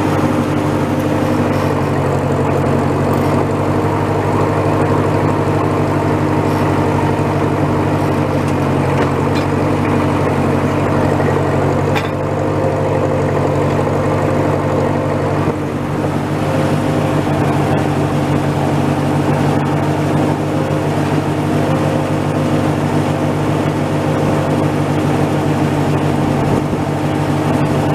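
Old Massey tractor engine running steadily at a constant speed, with a low, even hum that holds one pitch.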